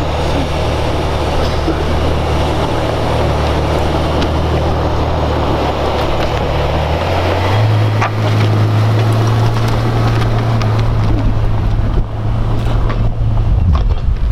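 A car engine idling with a steady low hum; about seven seconds in its pitch steps up to a higher, steady speed, over a constant background rush.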